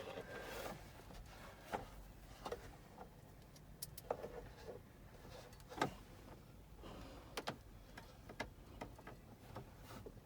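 Faint, scattered clicks and light taps of a hand screwdriver and small screws against plastic glove box latch parts, about one every second.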